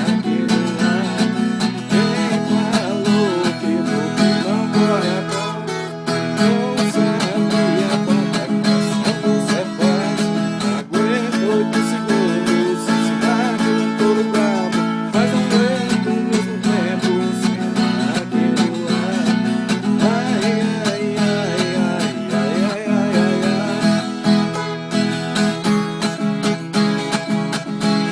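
Viola caipira, the Brazilian ten-string folk guitar, played solo: a fast plucked melody over ringing low strings.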